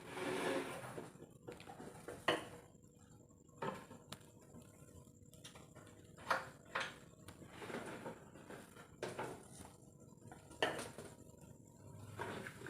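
Scattered light knocks and clacks, irregularly spaced about a second apart, over a faint steady hum.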